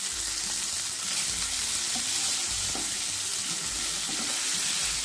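Stuffed bitter gourds sizzling steadily in hot oil in a nonstick frying pan, with a spatula scraping among them near the end.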